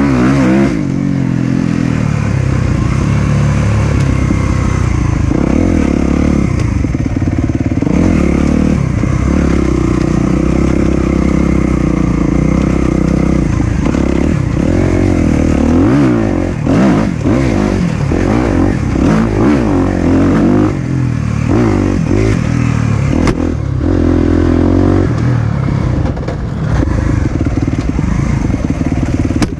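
Four-stroke dirt bike engine being ridden on a trail, its pitch rising and falling over and over as the throttle is opened and shut.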